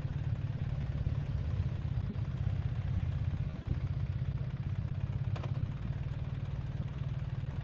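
Motorcycle engine idling steadily, a low, even pulsing.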